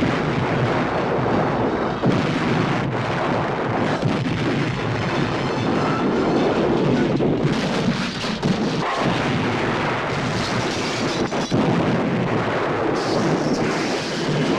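Action-film sound effects: continuous loud noise with many sharp bangs throughout, like sustained gunfire and blasts.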